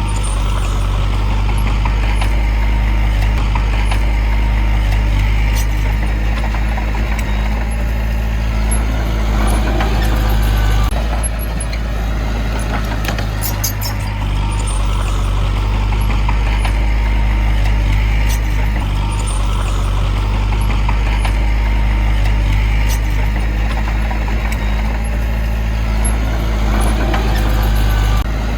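Heavy diesel engine of earthmoving machinery running steadily under load, with a brief change in its note about eleven seconds in.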